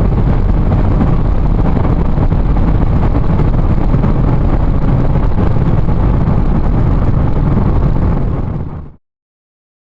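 Audi S3 sedan under way: its 2.0 TFSI turbocharged four-cylinder and the tyre and wind noise make a steady drone, which fades out near the end.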